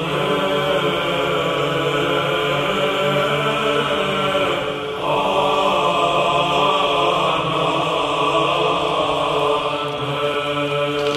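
A voice chanting a long, steady low note like a mantra drone, breaking off briefly about five seconds in and then taking up the same note again.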